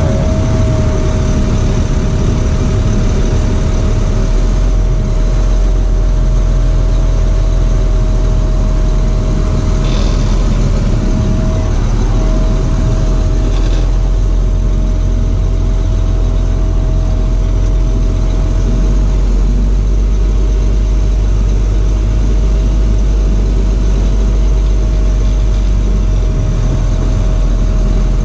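Box truck's engine and drivetrain running steadily while the truck is driven, with a steady high whine throughout.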